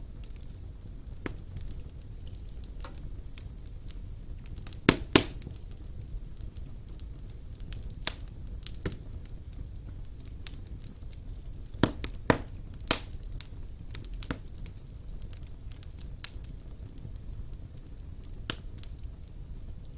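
Wood fire burning in a fireplace: a steady low rumble of flames with scattered sharp crackles and pops. The loudest pops come as a pair about five seconds in and a cluster of three around twelve to thirteen seconds.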